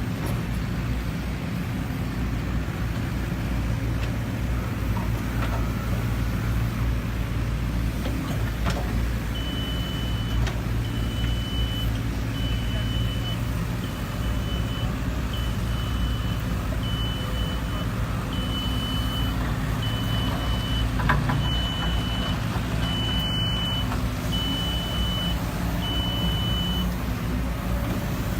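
Diesel engine of a JCB JZ140 excavator running steadily under work. A backup alarm beeps about once a second, starting about a third of the way in and stopping near the end.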